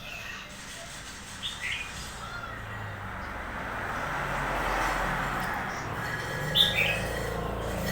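Red-whiskered bulbul giving a few short chirps, each falling in pitch, over a swell of broad background noise that rises and fades in the middle.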